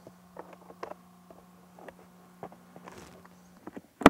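Light clicks and small knocks of hands working on a motorcycle's plastic airbox and air filter, over a faint steady low hum that stops near the end. A single sharp click comes right at the end.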